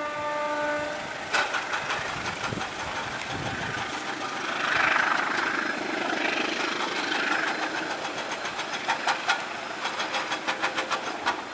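Passenger train carriages passing over a railway bridge, the wheels clicking over the rail joints in quick clusters, with a stretch of hiss midway. A short pitched tone sounds in the first second.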